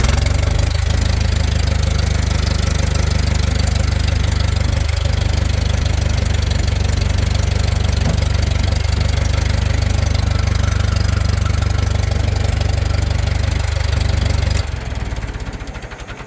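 1963 International 3414 loader backhoe's gasoline engine, just fired up, running steadily at idle. Near the end it is shut off and dies away.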